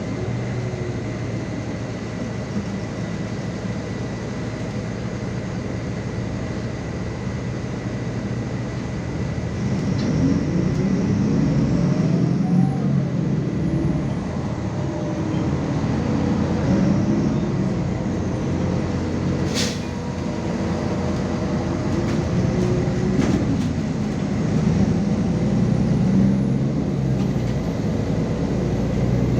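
MAZ 216 city bus under way, heard on board: steady engine and road noise that grows louder about ten seconds in, with the engine's pitch rising and falling twice, and a single sharp click a little past the middle.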